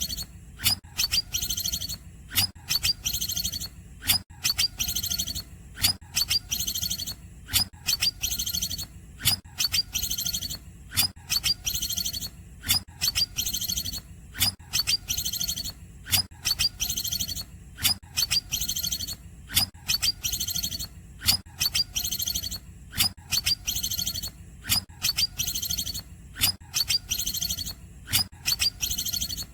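Cucak ijo (green leafbird) singing a cungkokan-style phrase over and over, about once a second. Each phrase is a few sharp high chirps running into a fast, buzzy trill. A steady low hum runs underneath.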